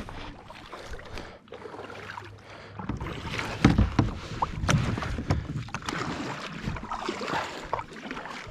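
A kayak moving on the water: water splashing and sloshing around the hull, with irregular knocks of the paddle and gear against the kayak, getting louder about three seconds in.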